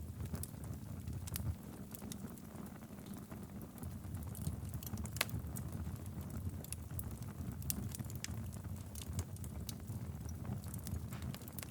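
Wood fire burning steadily in a fireplace: a low rumble of the flames with irregular crackles and pops, one sharper pop about five seconds in.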